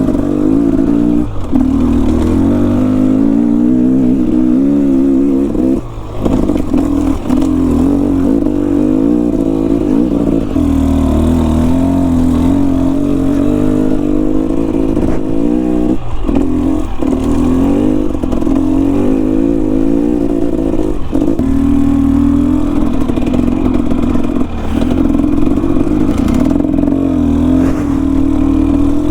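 Enduro dirt bike engine running under load, its note constantly rising and falling with the throttle, with a few brief drops where the revs fall away and pick up again.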